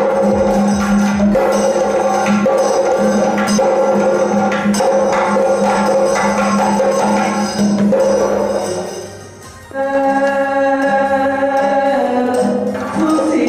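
Kathakali accompaniment music: a held sung note over regular percussion strikes, with a solo voice singing long sustained notes from about ten seconds in.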